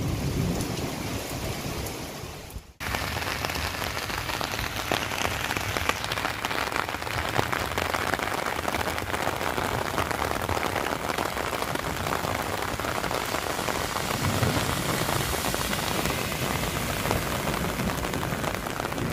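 Torrential rain falling on a flooded road: a steady, dense hiss of drops hitting standing water and wet asphalt. In the first few seconds wind rumbles on the microphone, then the sound cuts out briefly.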